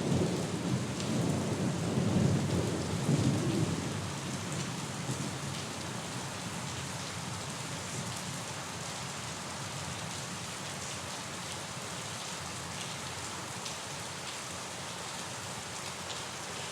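Steady rain falling, with a low rumble of thunder in the first few seconds that dies away after about four seconds, leaving the even hiss of rain with scattered drip ticks.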